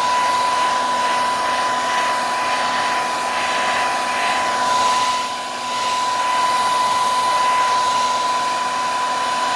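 Hand-held hair dryer running on its cool setting: a steady rush of air with a steady whine. The sound dips briefly about halfway through, then carries on as before.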